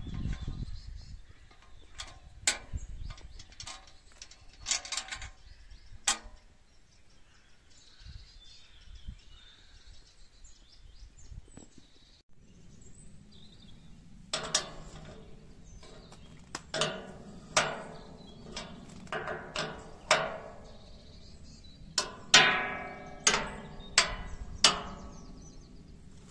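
Metal clanking and knocking, as of machine parts and tools being handled: a string of sharp knocks, some ringing briefly like struck steel. The knocks are sparse at first, then come thicker and louder in the second half, the loudest a few seconds before the end.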